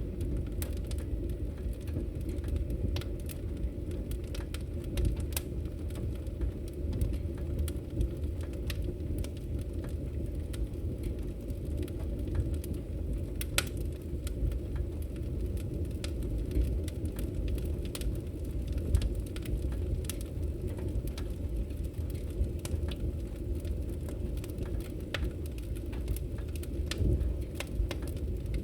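Wood logs burning in a fireplace: a steady low rumble of flames with frequent small crackles and pops.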